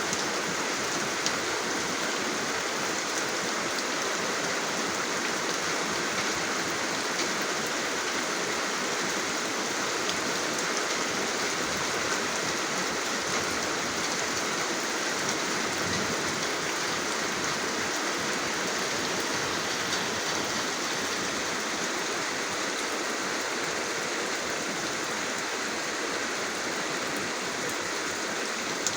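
Steady rain falling: a dense, even hiss of drops with a few sharper single drop ticks.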